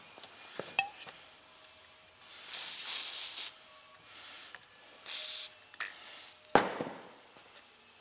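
Two short bursts of WD-40 aerosol spray, one about a second long and a shorter one a couple of seconds later, with a few sharp knocks in between and after, the loudest near the end.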